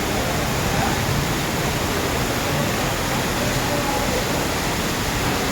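Heavy rain pouring down in a dense, steady hiss of noise with no individual drops standing out.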